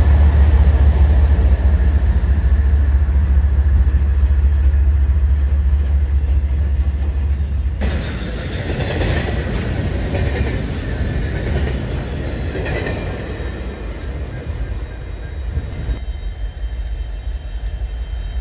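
Freight train passing close by: a BNSF diesel locomotive's heavy low engine rumble at first, with the rattle of intermodal flatcars rolling past. About eight seconds in the sound changes abruptly to a double-stack container train clattering and clanking by, and it drops away to a quieter rumble near the end.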